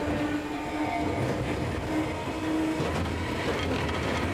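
Enoden electric train running, heard from inside the carriage: a steady rumble of wheels on the rails with faint clicks.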